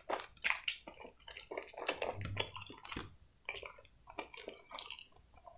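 A person chewing a mouthful of hot dog close to the microphone: irregular short mouth clicks and smacks.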